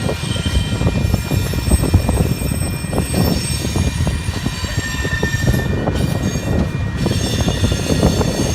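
Freight train cars rolling past, a steady low rumble with wheels knocking over rail joints and a thin, high squeal of wheels on the rail.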